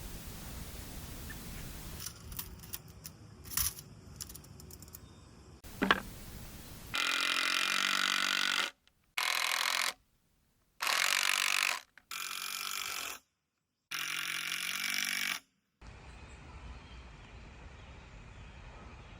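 Power tool running in five short bursts of a second or two each, cut off abruptly between them, after a few light clicks and a sharp knock during 2×4 woodworking.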